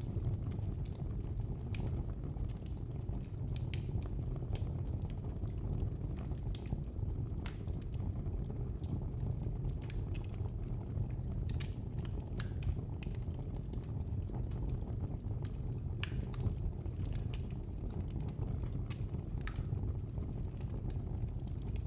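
Wood fire in a fireplace crackling: irregular sharp pops and snaps, scattered throughout, over a steady low rumble.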